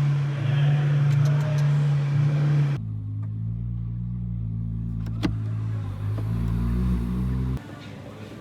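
A Ferrari LaFerrari's V12 engine idling steadily. After a cut about three seconds in, a deeper car-engine rumble whose pitch shifts a little, cutting off abruptly near the end.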